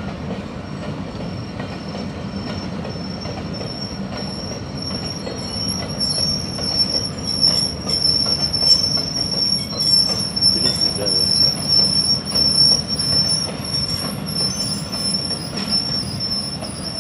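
Train rolling past, its steel wheels squealing on the rails in a steady high screech over the low rumble of the cars. It grows louder from about six seconds in.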